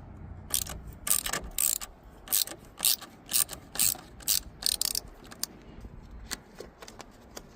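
Small ratchet with an extension and 8mm socket clicking as it loosens the nut on a car battery terminal clamp to disconnect the battery. Sharp clicks, two or three a second, stop about five and a half seconds in.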